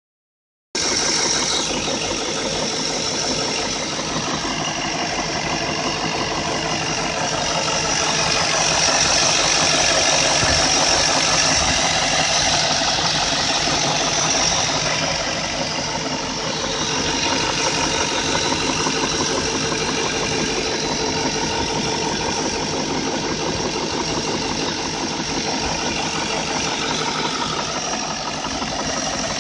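BMW M62 V8 engine running steadily with a knocking noise that the owner puts down to the VANOS variable valve timing rather than true engine knock.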